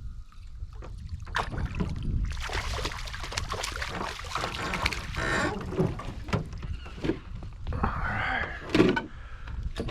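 Wind rumbling on the microphone, with scattered knocks and clicks of gear being handled in a small fishing boat, and a short rattle about five seconds in.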